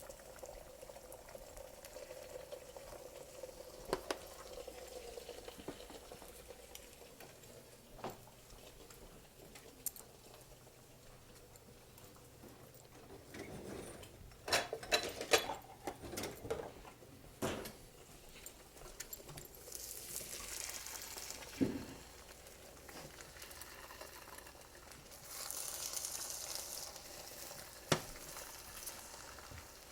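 Egg whites cooking in a hot frying pan: a faint sizzle, stronger in two stretches in the second half, with scattered clicks and a quick cluster of knocks about halfway through.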